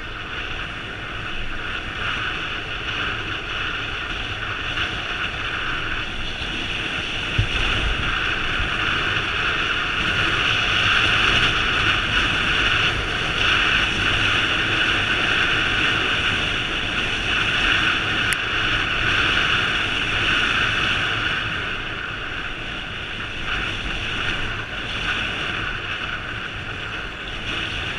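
Steady rushing noise of a moving vehicle with wind buffeting the microphone, growing louder toward the middle and easing off near the end.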